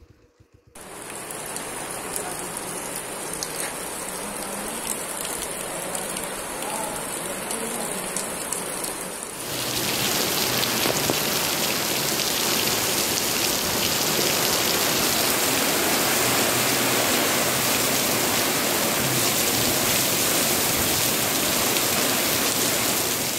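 Heavy rain pouring steadily onto a paved street and rooftops. About nine seconds in, the sound jumps suddenly louder and hissier.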